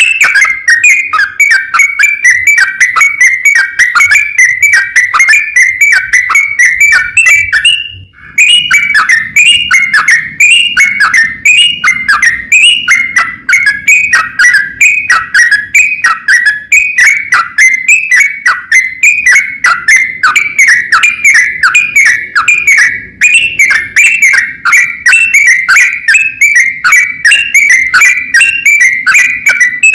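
Yellow-vented bulbul (trucukan) singing a long, unbroken chattering song, a fast run of short whistled notes with a brief pause about eight seconds in.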